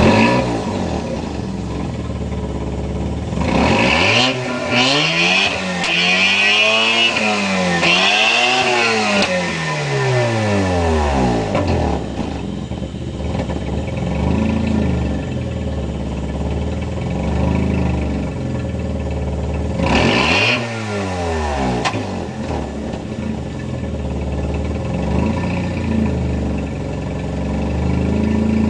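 A 1989 Mazda RX-7's 13B twin-rotor rotary engine, on its stock exhaust, is revved again and again in neutral. Quick blips climb and fall back to a steady idle, with a run of several revs early on and one big rev about two-thirds of the way in.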